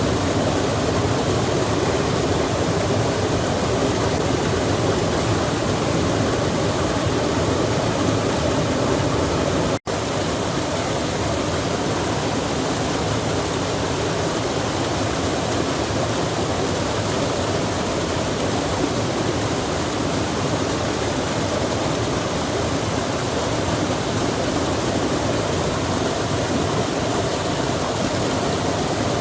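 Steady rushing of a mountain stream, with a momentary dropout about a third of the way in.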